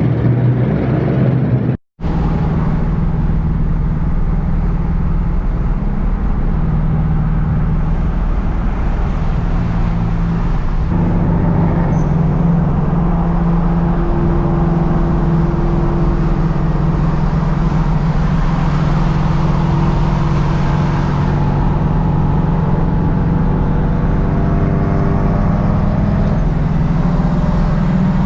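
Car engine running steadily while cruising, a constant low drone with little change in pitch. The sound cuts out for an instant about two seconds in, then carries on.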